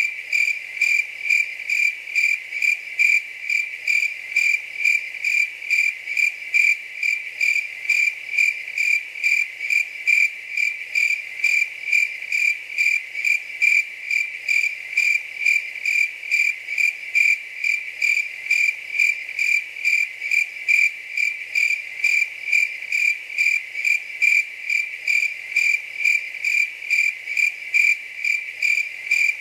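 A cricket chirping steadily: even, short chirps at one high pitch, about two a second.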